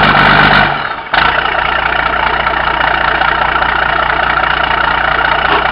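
Cummins 12-valve inline-six turbo diesel with a P7100 injection pump, running steadily through a straight open exhaust pipe. The sound dips and breaks off sharply about a second in, then resumes at a steady run.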